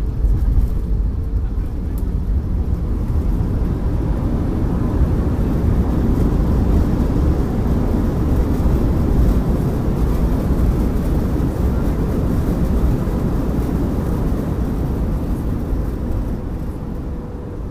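Cabin noise inside an Airbus A321 on its landing roll: a loud rushing rumble that builds over the first few seconds and eases off near the end as the aircraft slows.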